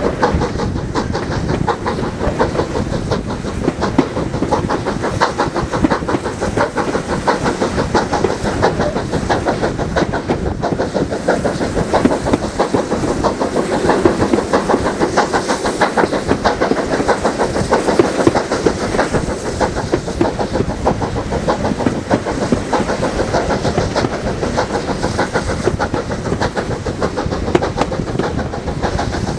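Train running steadily on the railway, its wheels clattering rapidly over the rail joints above a continuous rumble.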